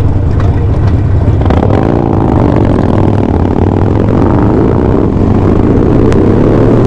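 Motorcycle engines running on the road, with the engine pitch drifting up and down from about a second and a half in, over a steady low rumble.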